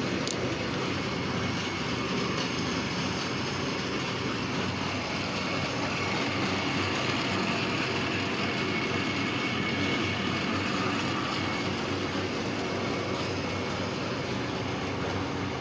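Lathe running steadily with a constant mechanical hum, a somewhat higher hiss coming up in the middle for a few seconds.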